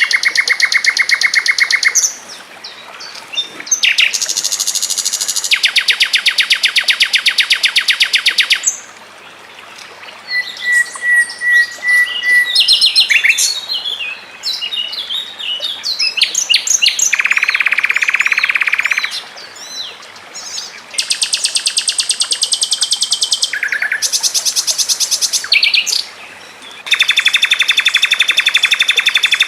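Songbirds singing in very fast, tightly packed trills, each lasting a couple of seconds, with short gaps and bits of varied twittering between them.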